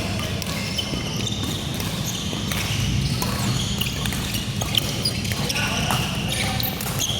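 Badminton rally: scattered racket strikes on the shuttlecock and brief shoe squeaks on the court floor, with people talking in the background.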